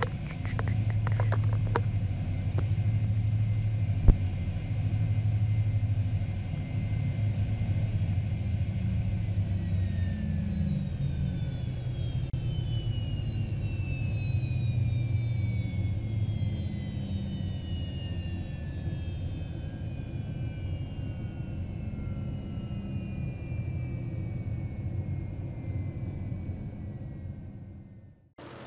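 Gulfstream G-IV's Rolls-Royce Tay turbofan engines running at idle with a steady whine and rumble, then shut down about nine seconds in: the whine falls steadily in pitch as the engines spool down. One sharp click sounds a few seconds in.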